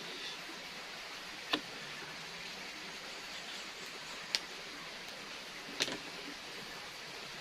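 A steady hiss of outdoor noise, with three short, sharp clicks or taps spread through it.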